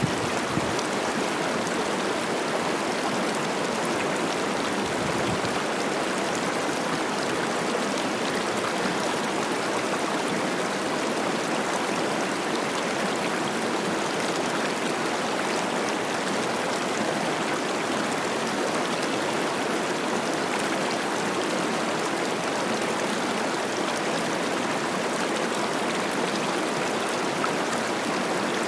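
Cache la Poudre River running high with spring snowmelt: steady rushing and babbling of fast water over rocks.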